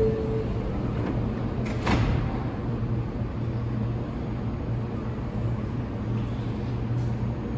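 R179 subway train in the station, a steady low hum from its running equipment. There is a brief tone at the very start and a sharp clunk about two seconds in.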